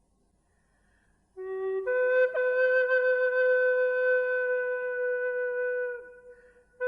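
Slow flute-like wind-instrument music: after a near-silent start, a short low note moves up into one long held note of about four seconds that fades away near the end.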